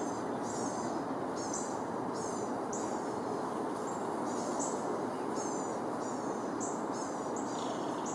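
A bird chirping over and over, about two short high chirps a second, each dropping slightly in pitch, over a steady background hiss.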